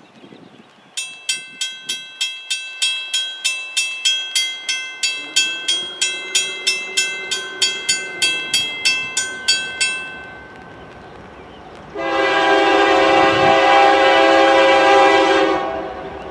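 A bell rings rapidly, about three strikes a second, for around nine seconds and then stops. A couple of seconds later comes one long, loud blast of a diesel locomotive's air horn, from Norfolk Southern train 177's lead unit, an AC44C6M.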